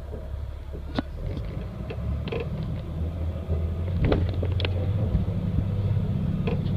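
Diesel engine running with a steady low rumble that grows louder over the first few seconds and then holds, with a few light clicks scattered through it.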